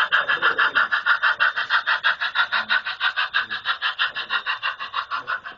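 Model train running on a layout, giving a rapid, even pulsing about seven times a second that slowly fades near the end.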